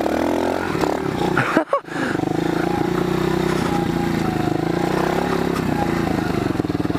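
Pit bike's small single-cylinder engine running steadily at low revs and idling, with an even pulsing beat. The sound drops out briefly about a second and a half in.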